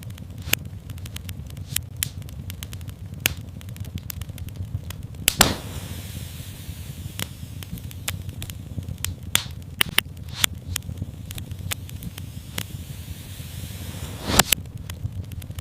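Wood fire crackling in a fireplace: irregular sharp pops and snaps over a low steady rumble, with a soft hiss through the middle stretch. The loudest pops come about five seconds in and near the end.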